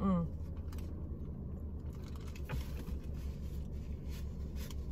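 A person biting and chewing a mouthful of flatbread, with faint wet mouth clicks, over a steady low hum.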